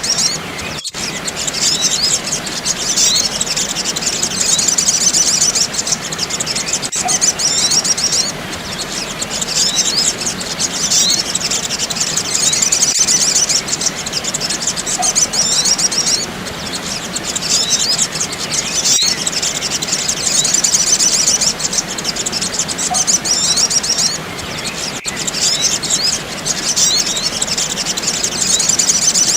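Sogok ontong (sogon) calls: rapid, high-pitched chirping and twittering in stretches a few seconds long with short gaps, over a steady hiss. It is a looped bird-lure recording that repeats about every six seconds.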